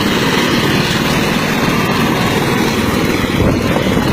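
Helicopter running close and loud, its rotor beating in a fast, even chop over the engine.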